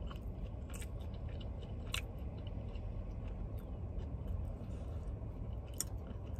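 Close-up chewing of a fried chicken sandwich, with a few sharp wet mouth clicks spaced through the chewing, over a steady low hum.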